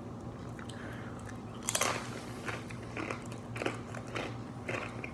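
Someone bites into a piece of ghost pepper cheese with one loud crunch about two seconds in, then chews it with short, regular chewing sounds about twice a second.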